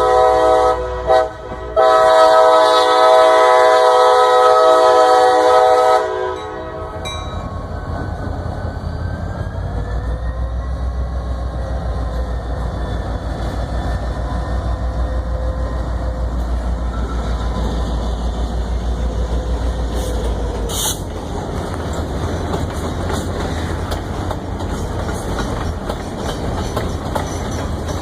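CSX freight train: the locomotive's air horn blows a chord, breaking off for a moment about a second in, then holding a long blast that stops about six seconds in. After that comes the steady rumble and clickety-clack of the freight cars rolling past on the rails.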